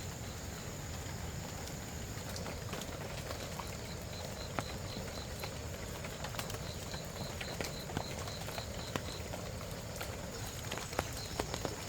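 Steady low background noise with scattered light clicks and knocks, more of them near the end, and runs of a short high chirp repeating evenly about four times a second.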